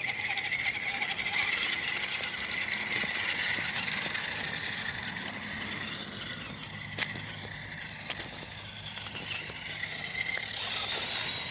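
Axial SCX10 II RC crawler's electric motor and gear train whining as it crawls over rock, easing off about halfway through, with a few sharp clicks from the truck on the rock.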